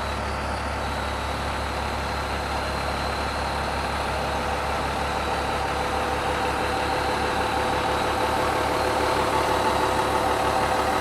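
Road roller's diesel engine running steadily with a low pulsing hum, slowly getting louder.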